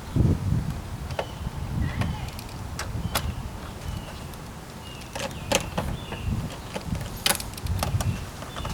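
Scattered metallic clicks and knocks from a hand tool giving the air filter housing's four cover bolts a final tightening, over a low rumble of handling noise.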